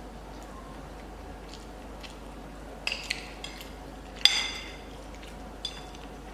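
Cutlery clinking against a dish while eating, a few separate clinks with the loudest, ringing one about four seconds in.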